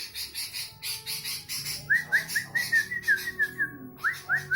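Sooty-headed bulbul (kutilang) singing a fast, busy song: rapid high chirps, then from about two seconds in a quick run of slurred whistled notes, about seven a second. The run breaks off briefly near the end and then starts again.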